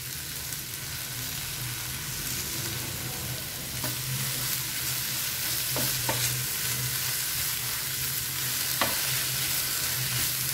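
Sliced okra stir-frying in coconut oil in a nonstick pan: a steady sizzle while a spatula stirs it, with a few sharp taps of the spatula against the pan.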